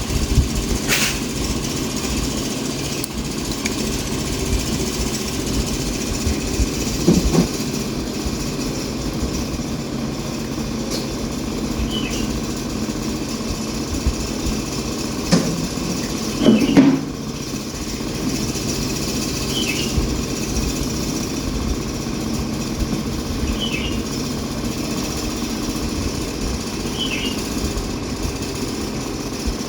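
A motor running steadily, with a few knocks and several short high chirps every few seconds.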